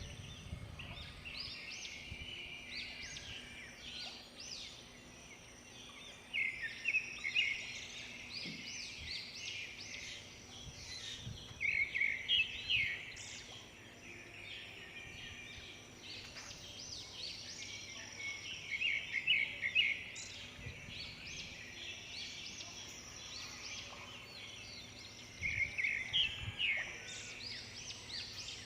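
Many small birds chirping and twittering together, with a louder call of rapid repeated notes returning about every six or seven seconds.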